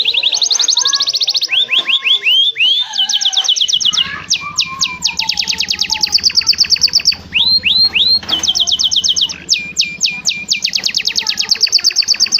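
Domestic canary singing continuously: fast rolling trills of repeated downward-sweeping whistled notes, phrase after phrase, each at its own pace. A faint low hum joins about four seconds in.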